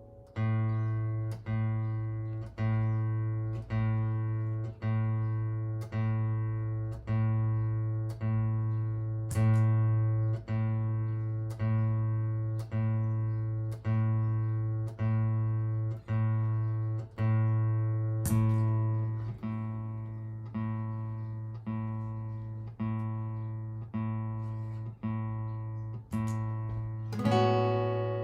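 Martin GPCPA4 acoustic guitar through a looper pedal: the same low note plucked about once a second in a steady, even pulse. A fuller chord rings in near the end.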